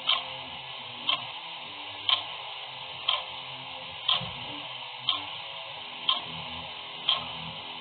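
A clock ticking steadily, one crisp tick each second, over a faint background hiss.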